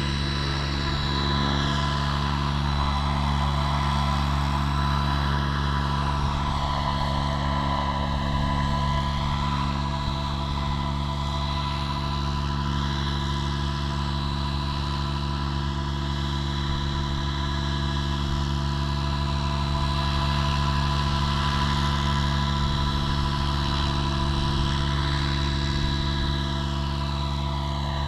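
Trex 700 RC helicopter in flight: a steady whine from the rotors and drive, its pitch slowly rising and falling as it moves about. Wind rumbles on the microphone underneath.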